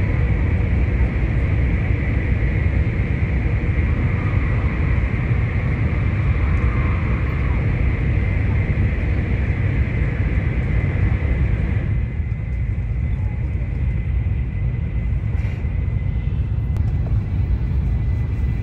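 Cabin noise of an N700A Shinkansen running along the line: a steady low rumble under a hiss, with a faint high steady whine. About twelve seconds in, the hiss drops away as the train comes out of a tunnel, leaving mostly the rumble.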